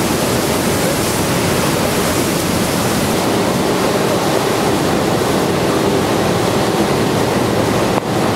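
Steady, loud rush of a large waterfall, an even wash of falling-water noise with no tones or rhythm, dipping briefly just before the end.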